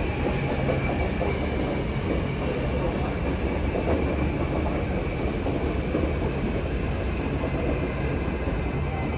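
A train running on the tracks: a steady rumble of wheels on rail with a thin high tone on top.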